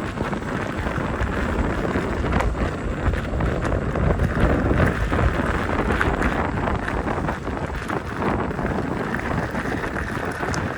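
Steady wind buffeting the microphone during an electric unicycle ride, a rushing, rumbling noise with no clear engine tone.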